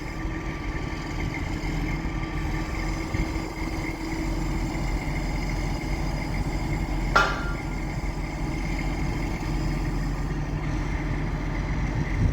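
A crane's engine running steadily under throttle as the crane takes up the strain before lifting a building. One sharp clank rings out about seven seconds in.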